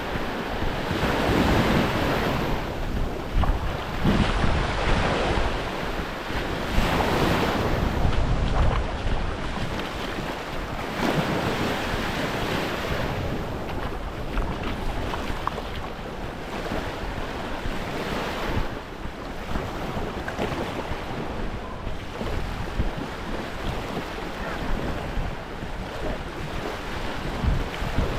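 Gulf of Mexico waves washing onto the beach, the surf noise swelling and easing every few seconds, with wind buffeting the microphone.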